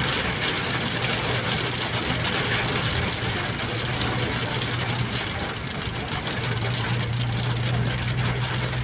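Steady hiss of heavy rain, with a vehicle engine's low, steady hum underneath.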